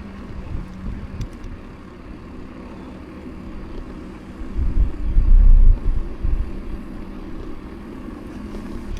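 Mountain bike rolling on pavement: a steady low tyre rumble with a faint hum, and wind buffeting the microphone, strongest for about a second and a half around the middle.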